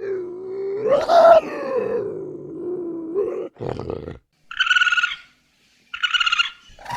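Animal calls: one long drawn-out call lasting about three and a half seconds that rises in pitch about a second in, followed by a short rough burst and two short, high, rapidly trilled calls near the end.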